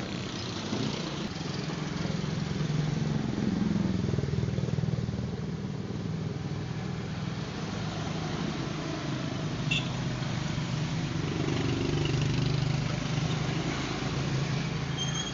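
Motor vehicle engine running continuously, a low steady hum whose level swells and eases gently a couple of times.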